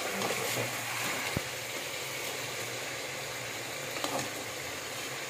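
Chicken pieces sizzling steadily in hot oil in a metal pan, being fried until they change colour. A slotted metal spoon clicks lightly against the pan about four seconds in.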